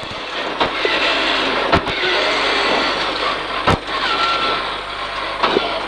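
Peugeot 306 rally car at speed, heard from inside the cabin: a steady rush of engine, tyre and road noise through a chicane, with a few sharp knocks from the car.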